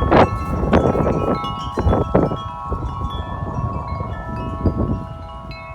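Several wind chimes ringing hard in a strong, gusty wind, with many overlapping struck tones, and wind buffeting the microphone. The gusts ease near the end, while the chime tones ring on.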